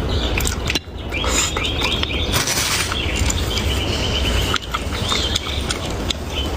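Birds chirping: a quick run of short rising calls, then a row of repeated short notes, over a low steady hum and scattered clicks.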